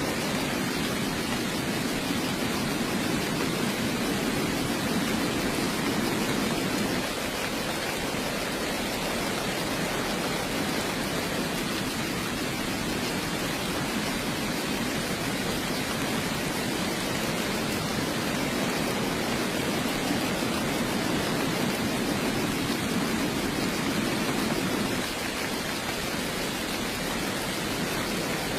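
Heavy rain falling steadily, an even hiss with a low rumble that swells and eases slightly twice.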